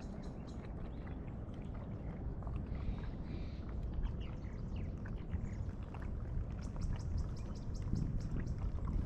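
Kayak paddling on open water: small splashes and drips from the paddle over a steady wind rumble on the microphone.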